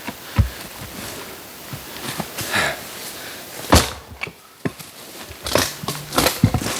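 Irregular knocks and clatters of hard objects being handled, the loudest a sharp strike a little under four seconds in, with a quick run of knocks near the end.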